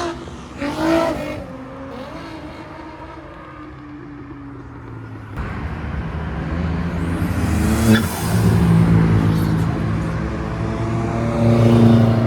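Cars' engines pulling out and accelerating past. The engine noise comes in suddenly about five seconds in, has a rising whine partway through, and is loudest near the end.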